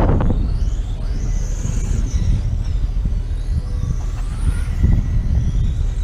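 Motorcycle engines revving, their pitch rising and falling, under a heavy continuous low rumble.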